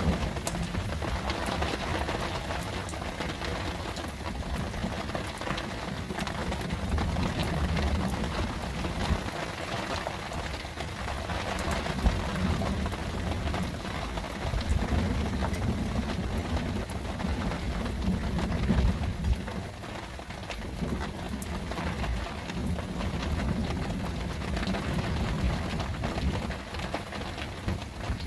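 Heavy rain falling steadily, the drops pattering in a dense hiss, with low rumbles swelling and fading at times that sound like distant thunder. There is one sharp crack about twelve seconds in.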